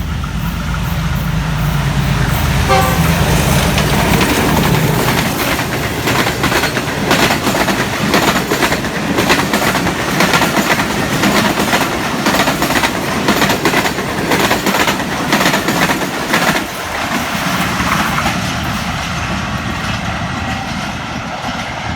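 A diesel-hauled express train passing close by at speed on the next track. The locomotive's engine drones through the first few seconds, with a brief horn note about three seconds in. Then the coaches clatter past with rapid wheel clicks over the rail joints, thinning out about seventeen seconds in.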